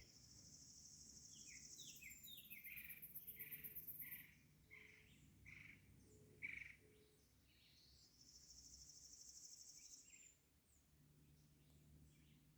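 Faint outdoor ambience: a bird calls a run of about ten short whistled notes, while an insect gives a high pulsing buzz near the start and again about eight seconds in.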